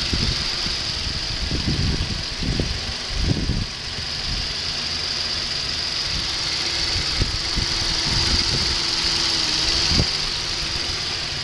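A 2008 Ford Taurus's 3.5-litre V6 idling steadily, with a steady high hiss over the engine hum. Irregular low thumps come through in the first few seconds.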